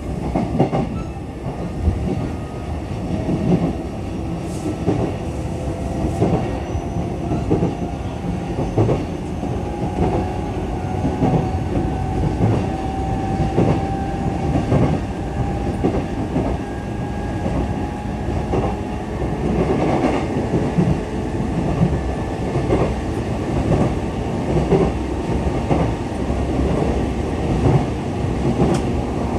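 JR East E233-7000 series electric train running at speed, heard inside the passenger car: a steady rumble from wheels on rail, with repeated knocks as the wheels pass over rail joints. A faint whine slowly rises in pitch.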